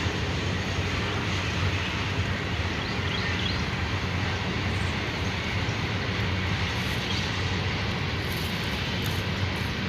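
A train running steadily, a low engine drone under an even rumble, with no breaks or changes.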